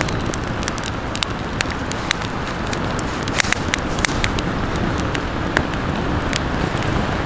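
Wood campfire crackling: irregular sharp pops and snaps, a few each second, over a steady low rush.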